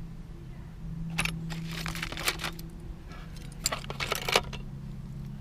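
Metal costume jewelry clinking: a few sharp clicks in small clusters about a second, two seconds and four seconds in as pieces are handled and set down, over a low steady hum.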